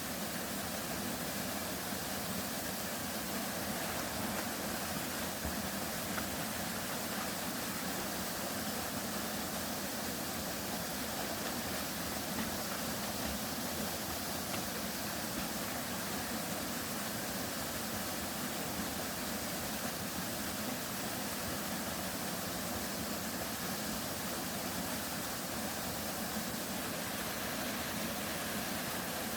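Waterfall on a river, its falling water making a steady, unchanging rush.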